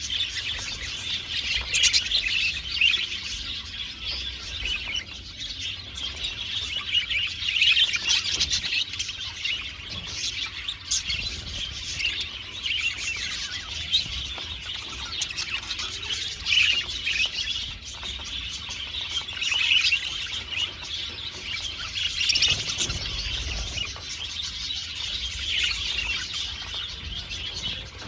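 A flock of budgerigars chattering and warbling together, a continuous overlapping stream of chirps and squawks.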